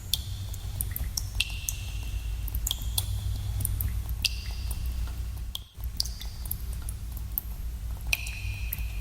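Water drops dripping in a cave, plinking irregularly several times a second, many with a short ringing, echoing tone, over a steady low rumble. The sound drops out for a moment a little past halfway.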